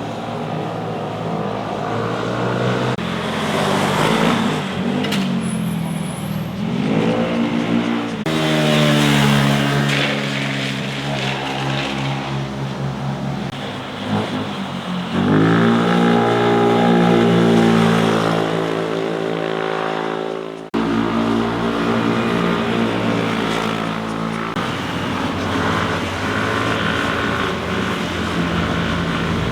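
Motorcycles riding past one after another, their engines revving and rising in pitch as they accelerate. The sound breaks off and changes abruptly twice.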